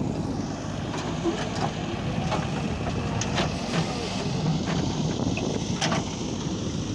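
Diesel engine of heavy farm machinery (a JCB backhoe loader or a tractor) running steadily under work, with a few sharp clanks scattered through.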